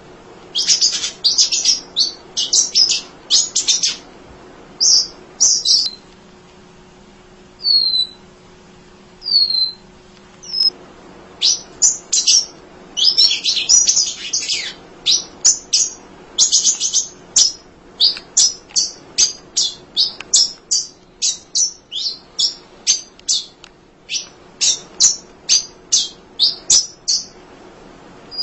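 Munia (emprit) singing without pause: rapid bursts of high, scratchy chirps, a couple of short downward whistles, then a long run of quick chirps at two or three a second.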